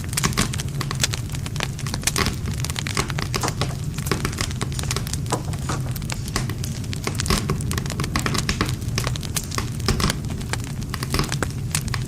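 Wood fire burning steadily: dense, irregular crackling and popping of burning wood over a low, steady rumble of flame.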